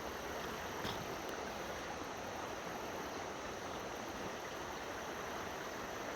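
Steady rush of creek water running below a dam, with one faint click about a second in.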